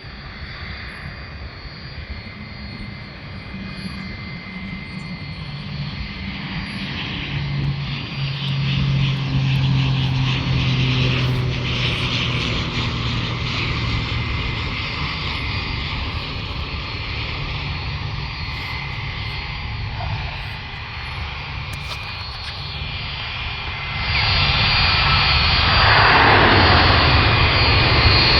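Military airplane's engines on a landing approach, a steady drone growing louder as it nears, with a sudden jump in loudness near the end.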